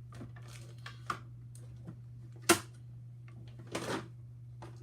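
Scattered small clicks and knocks of a plastic toy playset being handled, with one sharp click about two and a half seconds in and a short rustle near four seconds. A steady low hum runs underneath.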